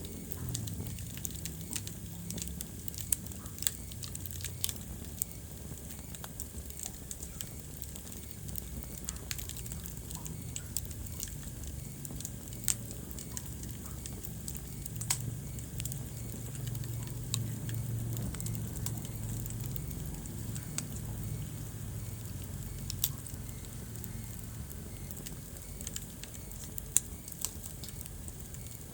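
Wood fire burning in a fireplace: continuous soft crackling with irregular sharp pops, a few of them noticeably louder than the rest.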